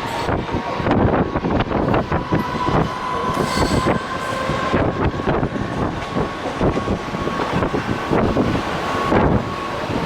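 A moving train running on the rails, with dense irregular rattling and clattering and a steady high whine held throughout.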